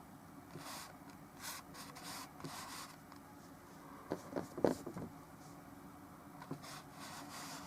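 Bristle brush strokes with oil paint on canvas: short, faint, scratchy swishes every second or so, with a few soft knocks about four to five seconds in.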